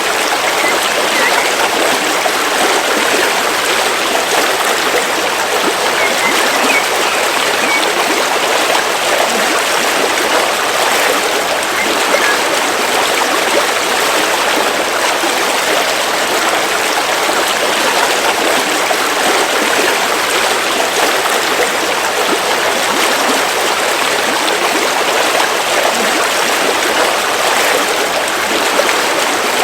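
River water flowing steadily, an even and unbroken rush of water.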